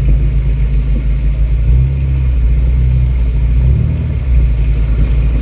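Ford Bronco's engine pulling at low revs under load as the truck crawls over a fallen tree, a deep steady rumble that shifts in pitch and load about two seconds in and again near four seconds.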